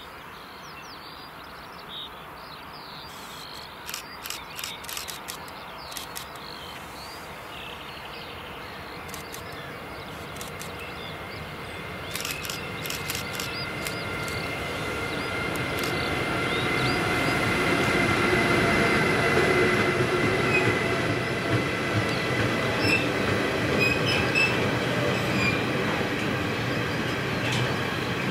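Siemens Vectron electric locomotive hauling a freight train of car-transporter wagons, approaching and passing at speed. The rumble grows steadily louder over the first two-thirds, with a high steady whine joining about halfway. Near the end the wagons clatter rhythmically over the rail joints as they roll past.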